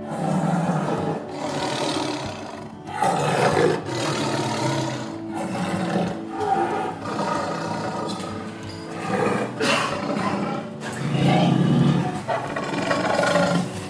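Tiger growling and roaring again and again, each rough growl lasting a second or two with short gaps between.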